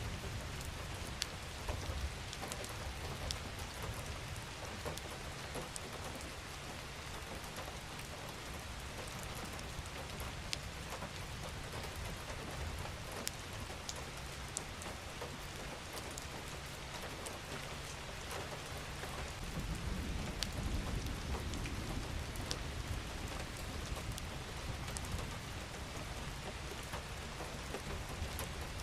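Steady rain falling, an even hiss dotted with individual drops ticking on a surface. A low rumble swells briefly about twenty seconds in.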